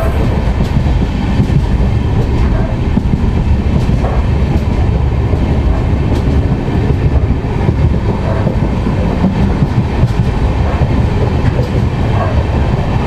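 A train running, heard from inside the guard's brake van at its rear: a steady, heavy low rumble with faint clicks of the wheels over the rails.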